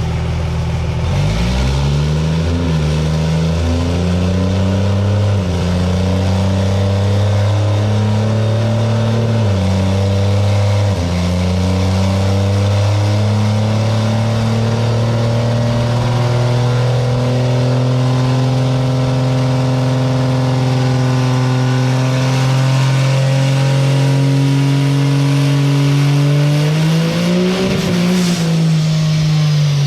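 Cummins diesel drag truck engine pulling hard on a chassis dyno, its pitch climbing and dropping back at several gear shifts, then rising steadily through a long pull. Near the end the revs peak and fall away as the engine suddenly cuts out, a cutoff the crew found bizarre.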